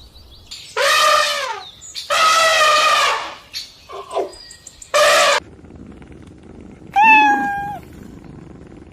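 Kitten meowing repeatedly, about five high-pitched meows: two long ones in the first few seconds, two short ones in the middle and a last one near the end.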